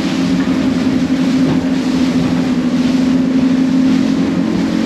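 A boat's engine running steadily with a constant low drone.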